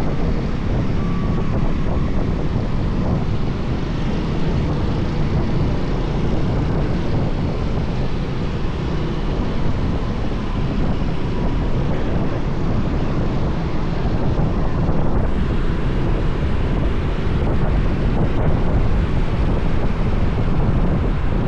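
Motorbike riding along a highway: a steady rush of wind on the microphone over the low drone of the engine and the road. It stays even throughout, with no sudden events.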